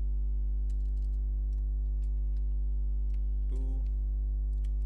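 Scattered computer keyboard keystrokes, faint single clicks, over a steady low electrical hum that is the loudest sound. A brief voice sound comes about three and a half seconds in.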